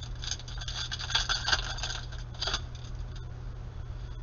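Trading cards being handled and slid against one another, a scratchy rustling in short runs through the first two and a half seconds that then dies down.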